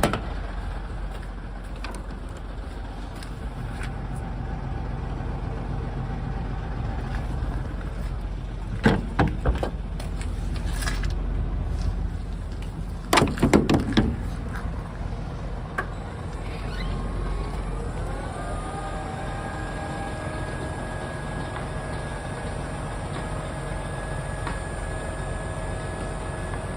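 Four-axle low-floor truck's diesel engine running steadily, with a few short knocks about nine seconds in and again around thirteen to fourteen seconds. About sixteen seconds in, a whine rises in pitch and then holds a steady tone.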